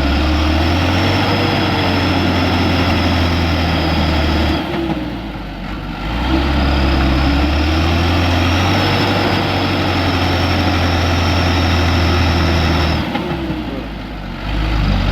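Truck diesel engine held at high, steady revs under load, easing off briefly about four and a half seconds in and again near the end.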